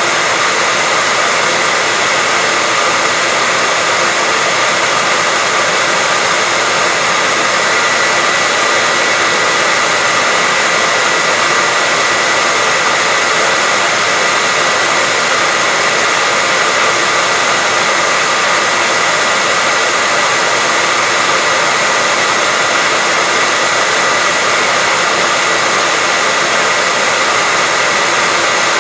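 Electric hair dryer running steadily: a constant airy rush with a steady high whine from its motor and fan.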